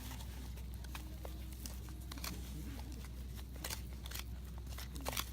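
Wood campfire crackling, with sharp pops scattered through it, the loudest cluster near the end, over a steady low rumble.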